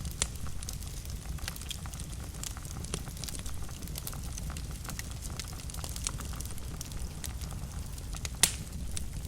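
Fire in a fireplace crackling, with a steady low rumble under scattered sharp pops; the loudest pop comes near the end.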